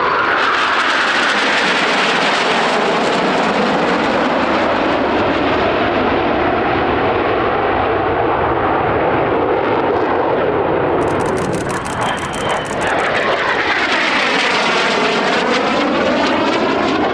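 Low-flying display aircraft passing close by, loud engine noise throughout, with a sweeping, phasing tone as it goes past near the start and again in the last few seconds.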